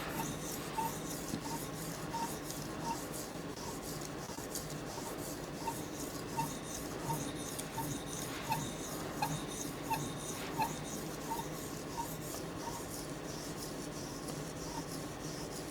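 Knife blade stroked along an 800-grit sharpening stone with very light pressure, in a steady scraping rhythm of a little over one stroke a second. These are light polishing passes on the edge.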